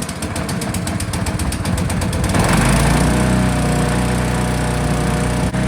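Engine of a Forestmaster FM8DD wood chipper just after starting, running with an uneven pulse, then picking up to a steady running speed about two seconds in.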